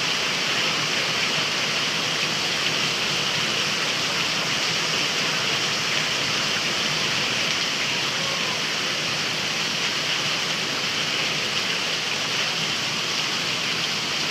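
Heavy rain falling: a steady, unbroken hiss of water.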